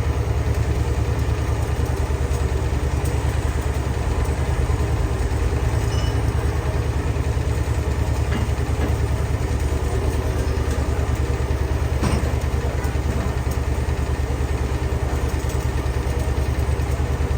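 Heavy workshop machinery running steadily, a deep, fast, even throb with a few faint clicks around the middle.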